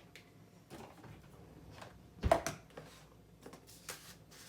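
Kitchen handling noises: a few light clicks and one sharp knock about two seconds in, as of cookware or a utensil set down on a counter.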